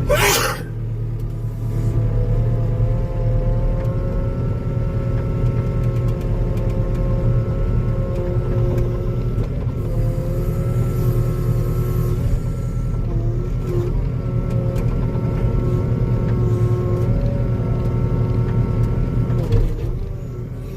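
Skid steer's diesel engine running steadily under work, with a constant whine from the hydraulics over the low engine drone, and a short loud burst of noise right at the start.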